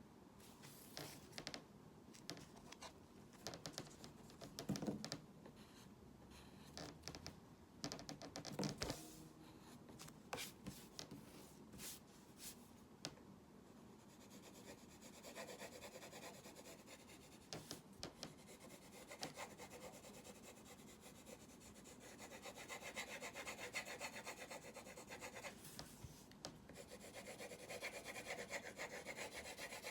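Faint drawing strokes: a drawing tip scratching and rubbing over the surface. The first half has separate short strokes and taps. From about halfway it turns into rapid back-and-forth scribbling, as in shading, which grows louder near the end.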